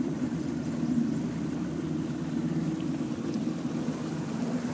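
Engine running steadily with an even low hum.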